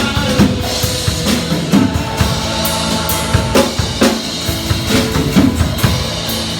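Live worship band playing an instrumental passage between sung lines: a drum kit keeps a steady beat under bass and sustained chords.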